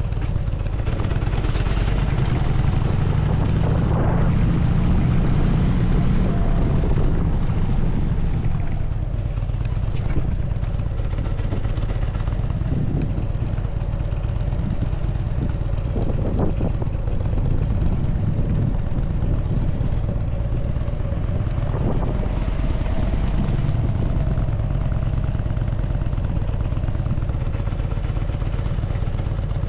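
Harley-Davidson Dyna Super Glide's air-cooled V-twin engine running steadily as the motorcycle is ridden, a continuous low rumble with a few brief knocks.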